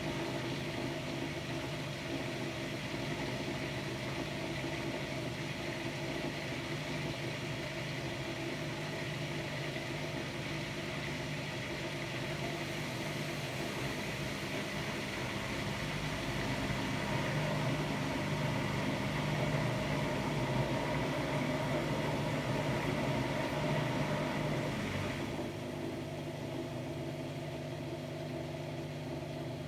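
Hotpoint-Ariston Aqualtis AQD972F washer-dryer running a cycle: a steady motor hum with a whirring hiss above it, rising a little past the middle, then the higher hiss cuts out suddenly about 25 seconds in, leaving the lower hum.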